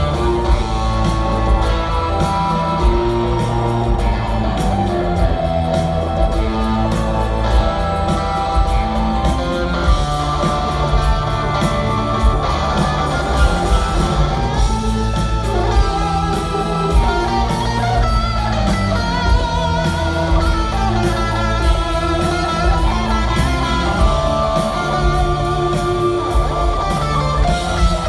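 Rock band playing an instrumental passage, with guitar to the fore over a steady drum beat.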